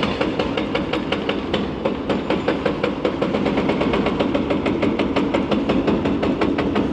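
Hydraulic breaker on a demolition excavator hammering concrete in a rapid, even rhythm, over the steady running of the excavator's diesel engine.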